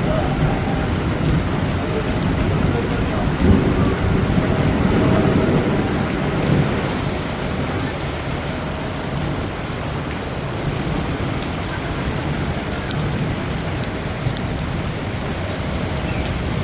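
Heavy rain falling steadily, with a low rumble of thunder that swells about three seconds in and dies away by around six seconds.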